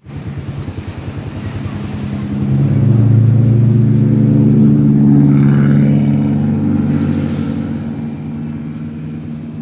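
Motor vehicle engine running, growing louder about two and a half seconds in as it accelerates, holding, then easing off toward the end.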